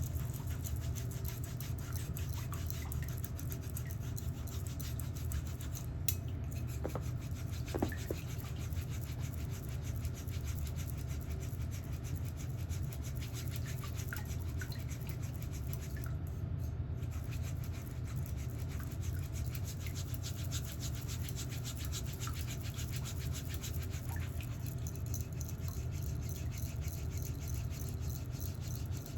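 Steady scratchy brushing and rasping of a nail-care tool worked against a thickened, fungus-affected toenail, over a constant low hum.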